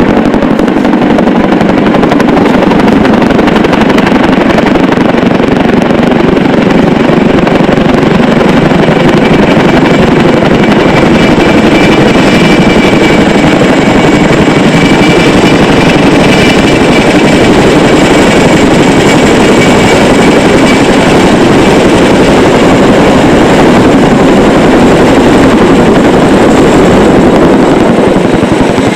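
CH-47 Chinook tandem-rotor helicopter running close by: a loud, steady rapid rotor chop with a steady high whine over it.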